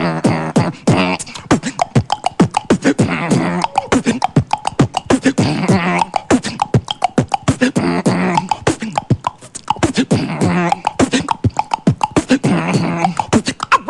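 A beatboxer performing live: a fast, steady beat of mouth-made kick, snare and hi-hat clicks, with short hummed pitched tones woven in every second or two.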